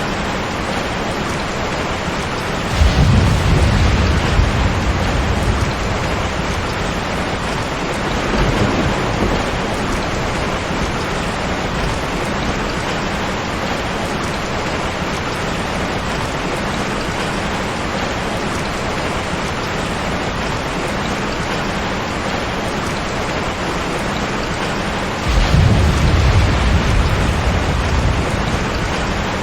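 Steady heavy rain, with two long low rolls of thunder, one about three seconds in and another near the end.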